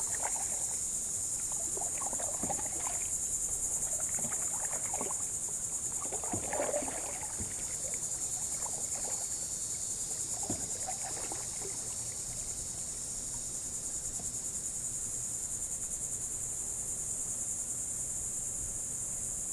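Steady high-pitched chorus of insects such as crickets. Scattered light knocks and small water sounds from the kayak fall over the first dozen seconds, then stop.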